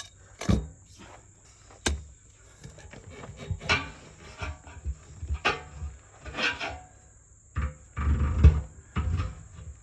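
Steel pry bars knocking and scraping against a backhoe's rear tire and rim as the tire bead is worked with them: irregular clanks and scrapes, with heavier thumps near the end.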